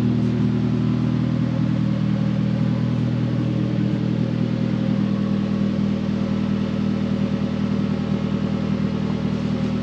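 Honda Civic's engine running steadily, a low even hum with a slight wavering in level in the second half; the owner says the car feels very rough.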